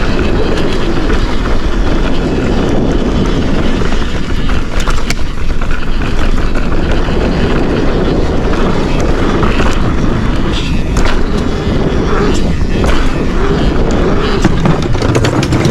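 Forbidden Dreadnought mountain bike riding down a dirt trail: a steady loud rush of tyre and wind noise, with frequent clicks and clattering from the bike over rough ground.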